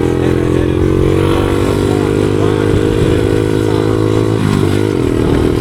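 Small four-stroke pit bike engine running steadily at mid revs while being ridden, its pitch dipping briefly and climbing back about four and a half seconds in.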